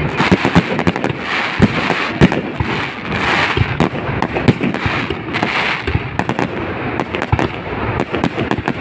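Aerial fireworks display: a dense, unbroken barrage of bangs, many a second, over continuous crackling from the bursting shells.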